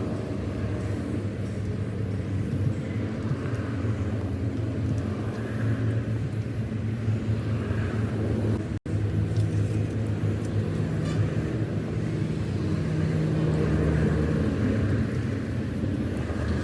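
Engine of heavy earthmoving machinery running steadily with a low, even hum. The sound breaks off for an instant about halfway through, then carries on slightly stronger.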